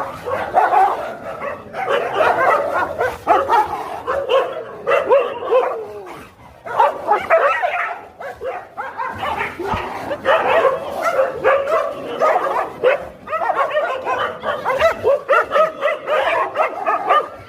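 Dogs fighting, barking and yelping in quick overlapping calls, with a brief lull about six seconds in.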